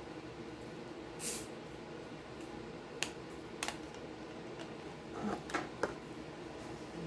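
Handling and opening of a soda container: a short hiss about a second in, then a few sharp clicks and a cluster of small knocks and taps near the end.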